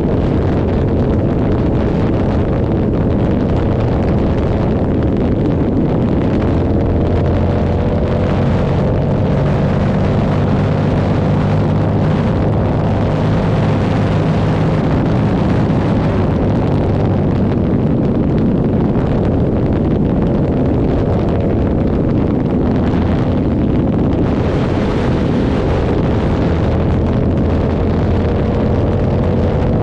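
Yamaha R7's 689 cc parallel-twin engine running through an aftermarket SC Project exhaust at a steady cruise, its pitch drifting gently up and down with no hard revs. Wind rushes over the microphone.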